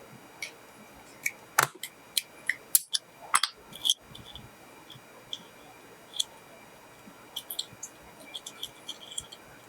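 A small gadget and its packaging being handled: irregular sharp clicks and crinkles. They come thickest in the first four seconds and again in a cluster near the end.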